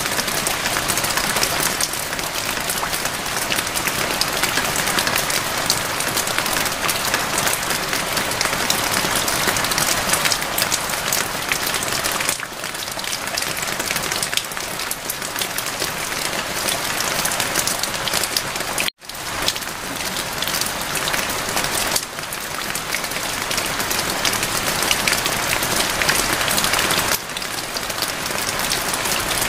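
Steady rain falling, a dense hiss and patter of drops. It cuts out for an instant about two-thirds of the way through.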